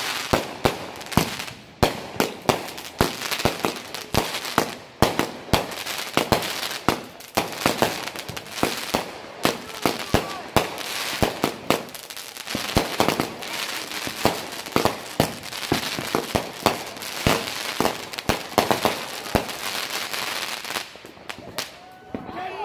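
Consumer fireworks going off: a rapid, irregular string of sharp bangs and crackles, several a second, that thins out shortly before the end.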